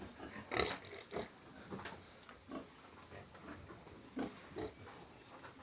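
Pigs grunting: about half a dozen short grunts, spaced unevenly.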